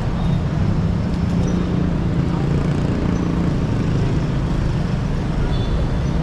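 City road traffic: a steady low hum of vehicle engines under an even wash of street noise.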